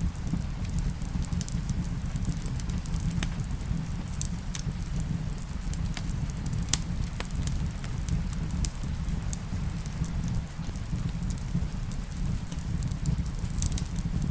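Wood fire crackling in a fireplace, with scattered sharp pops over a steady low rumble, mixed with rain. The loudest pop comes about seven seconds in.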